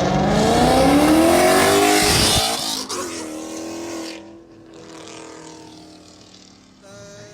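A car engine accelerating hard, its pitch climbing for about two seconds. It then cuts back suddenly and fades away as the car drives off.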